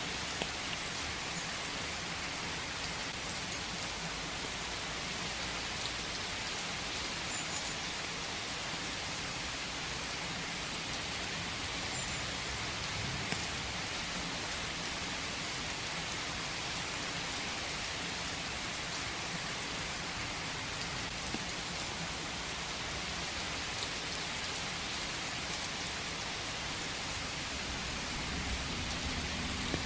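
Steady rain falling in a forest, an even hiss with the odd individual drop ticking out of it.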